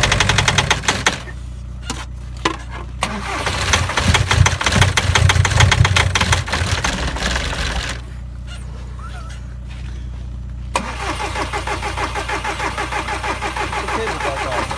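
2006 VW Jetta TDI's 1.9-litre four-cylinder turbodiesel running rough with heavy knocking just after a cold start at about −35°, the level surging twice and falling back, then settling into a steady rhythmic knock near the end. The knock is taken as a sign that something is wrong inside the engine.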